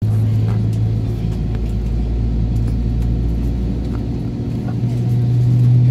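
Steady low drone inside an Airbus A320-232 airliner's cabin, a strong hum over a deeper rumble, which rises slightly in pitch about five seconds in.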